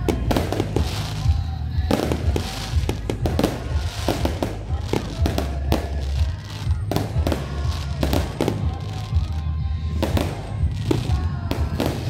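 Fireworks going off in quick succession, many sharp bangs and pops in clusters throughout, with music playing along.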